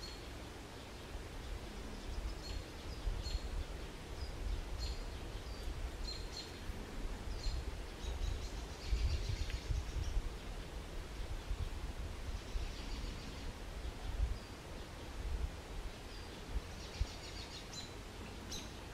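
Birds calling: short high chirps repeated every second or so, with two bursts of fast trilling, about halfway through and near the end, over a low rumbling background noise.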